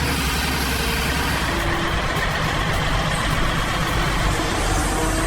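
Heavy log truck running steadily, a deep engine rumble mixed with the noise of the truck on the move.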